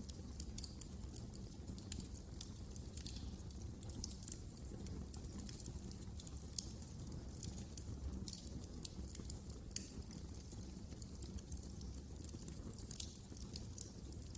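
Wood fire crackling: frequent irregular small pops and snaps over a low steady rumble of burning flames.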